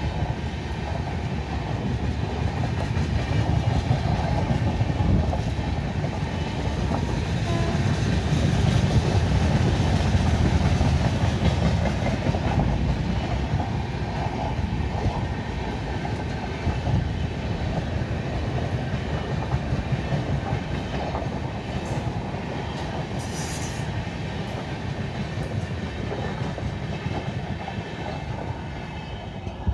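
Indian Railways passenger coaches rolling past: a steady rumble of steel wheels on the rails with clickety-clack over the rail joints. The rumble is loudest about a third of the way in and eases toward the end as the train moves away.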